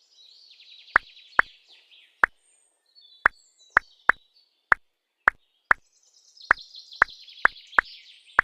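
A series of short, sharp plops at an uneven pace of about two a second, like drops falling into water. Faint, high, trilling chirps run behind them in two spells.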